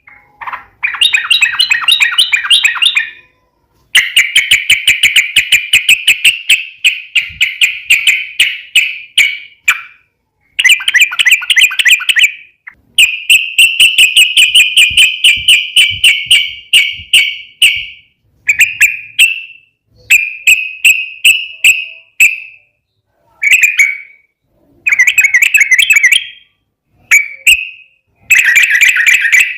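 Yellow-vented bulbul (trucukan) singing its long rolling song, fast runs of rapid bubbling notes. The phrases last from under a second to several seconds and are separated by short pauses.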